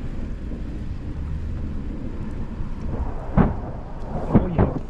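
Thunder following a nearby lightning strike: a steady low rumble, then a few sharp cracks about three and a half seconds in and again near the end.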